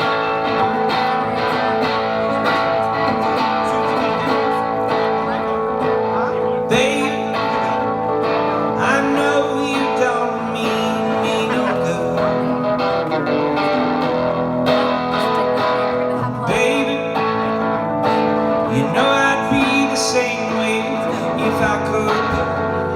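A band playing the song's instrumental intro, led by guitar.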